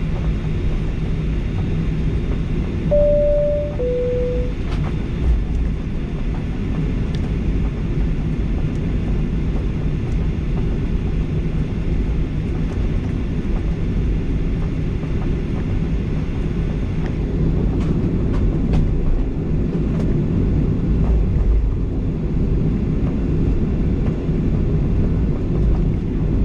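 Steady low rumble of a Boeing 737-800's cabin with its engines running. About three seconds in, a two-tone cabin chime sounds, a higher note then a lower one, and a few faint clicks come later.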